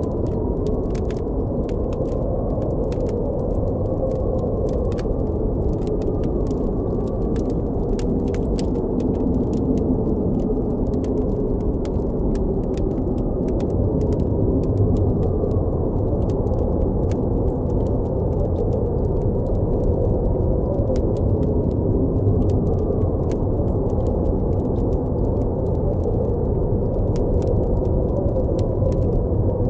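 Blizzard wind blowing as a steady deep rumble with a faint wavering howl, over the frequent small pops and crackles of a campfire.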